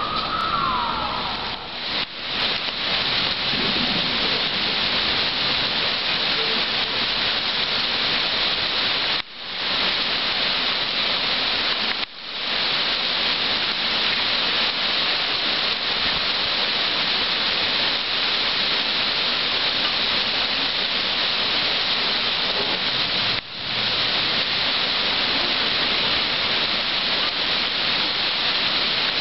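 Heavy rain pouring steadily onto pavement, a dense, even hiss. It drops out briefly a few times. A siren's wail rises and falls away in the first second or two.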